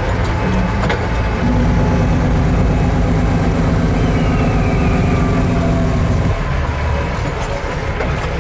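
Heavy truck's diesel engine running at a steady pitch. It gets louder about a second in and falls away about six seconds in.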